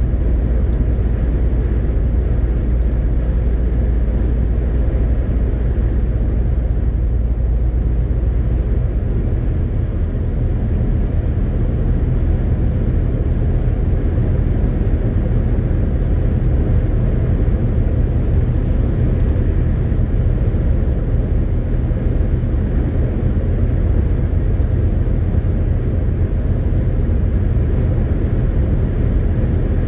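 MAN TGX 18.520 truck's straight-six diesel droning steadily under way, with tyre and road noise. The low engine note shifts about nine seconds in.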